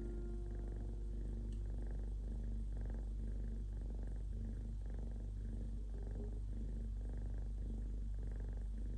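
Domestic cat purring steadily while asleep.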